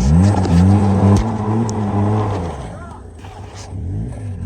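Polaris side-by-side UTV engine revving up hard, holding high revs for about two seconds, then dropping back, with a smaller rev near the end. The machine is straining to drive through deep snow where it has been getting stuck.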